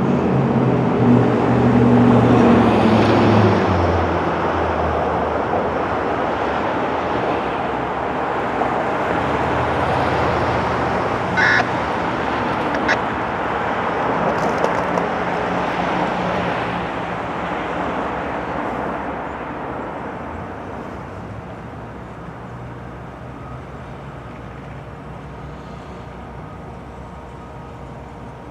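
Diesel freight locomotives passing, their engine note loudest in the first few seconds and dropping lower about four seconds in. The rumble of the train follows and fades away over the last several seconds.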